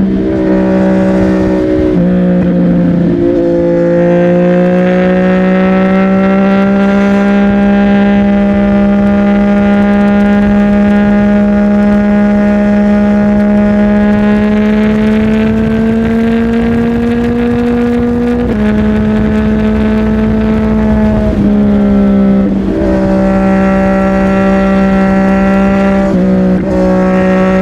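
CFMOTO 675NK three-cylinder motorcycle engine through a Burnout titanium aftermarket exhaust, heard while riding. The note climbs slowly for long stretches, with a few brief breaks where the pitch drops and picks up again as gears change.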